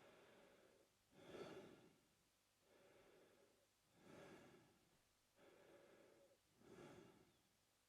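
A man breathing slowly and evenly through his mouth, quiet and close. Each breath cycle pairs a softer, longer breath with a louder, shorter one, about one full cycle every two and a half to three seconds, three cycles in all.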